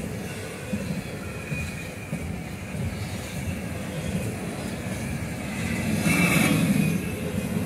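Double-stack container freight train passing close by: a steady rumble of wheels on rail. It gets louder for about a second around six seconds in.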